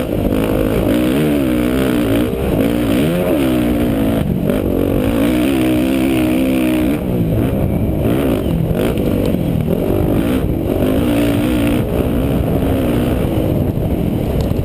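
Suzuki RM-Z450 motocross bike's four-stroke single-cylinder engine revving up and down as it is ridden around a dirt track, with the pitch climbing and falling over and over and several brief drops where the throttle is chopped.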